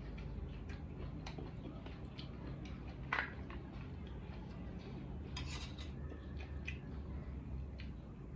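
Eating utensils clicking and scraping against a dish of spicy noodle salad, in scattered short knocks, the loudest about three seconds in and a quick cluster around five and a half seconds.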